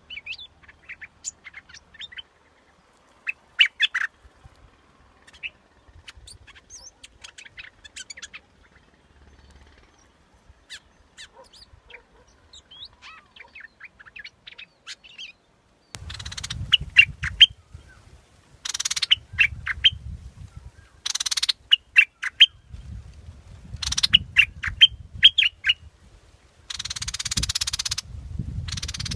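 Bulbul song: many short chirping notes in quick phrases. They are faint at first, then louder in clusters from about halfway, with a low rumble under the louder phrases.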